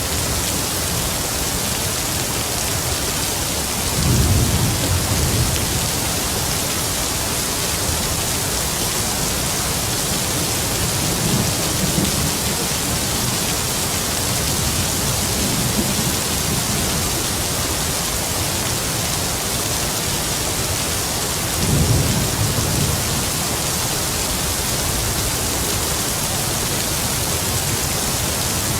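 Heavy rain falling steadily, with distant thunder rumbling low three times: about four seconds in, more faintly near the middle, and again about two-thirds of the way through.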